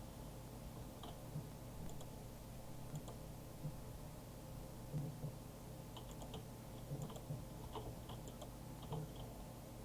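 Small mechanism running with a steady low hum and irregular light clicks and ticks.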